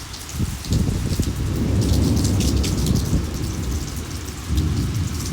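Heavy rain pouring down in a thunderstorm, with a long low rumble of thunder that begins about half a second in and swells again near the end.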